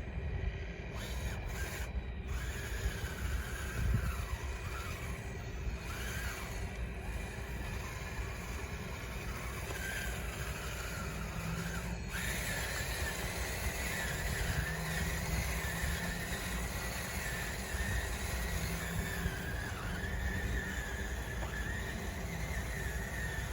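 Radio-controlled construction model's electric drive motors and gearing running, a whine that wavers in pitch as the throttle changes, over a steady low rumble. The whine gets louder about halfway through.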